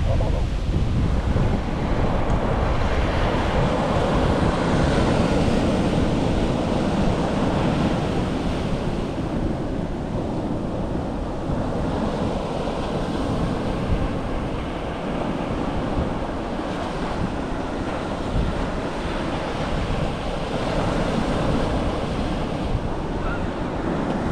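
Pacific Ocean surf breaking and washing up the beach, a continuous rushing that swells and eases over several seconds, with wind buffeting the microphone.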